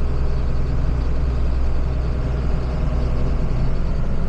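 Farm tractor engine running steadily while the tractor drives along the road at about 10 mph: a constant low engine hum with road and wind noise.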